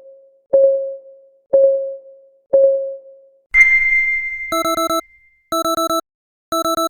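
Countdown timer's clock-ticking sound, one tick a second, three times. About three and a half seconds in a single bell-like ding rings out, then an electronic alarm beeps in quick bursts of four, about one burst a second, signalling that the timer has run out.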